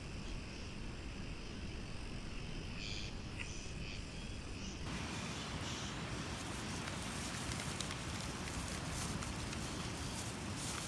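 Outdoor ambience: insects chirping steadily over a low rumble. About five seconds in, the sound changes suddenly to a brighter, steady hiss with scattered crackles.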